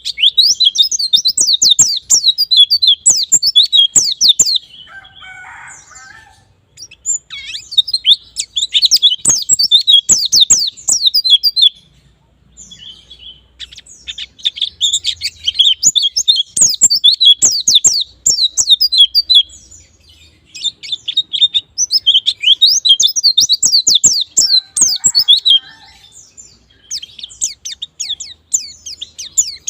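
Pleci (white-eye) singing a long, fast twittering song of sharp high notes in quick runs. It comes in bouts of about four to five seconds with short pauses between them: the wild-style 'ngalas' song used as a lure to set other pleci singing.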